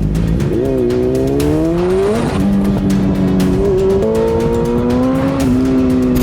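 A vehicle engine pulling hard, its pitch climbing and then stepping down, like an engine working up through the gears. A steady music beat runs underneath.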